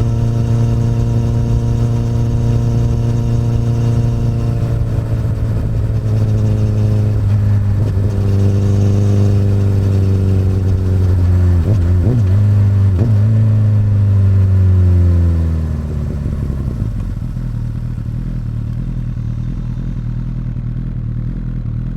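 A 2008 Honda CBR1000RR's inline-four engine through an Akrapovic exhaust, running as the bike slows. The engine note falls in steps, wobbles quickly a few times near the middle, then settles to a low, steady idle about two-thirds of the way through.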